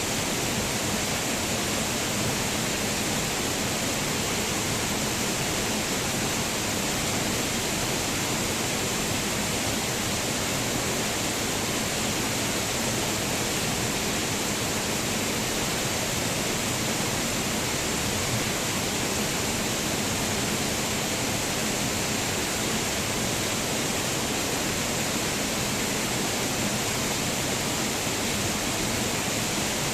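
Waterfall: water crashing down in a steady, unbroken rush.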